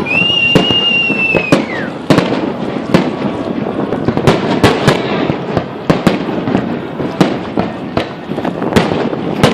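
Fireworks salute: a dense run of sharp bangs and cracks, several a second, over a continuous rumble of distant bursts. A high whistle is held for about a second and a half at the start, then drops away.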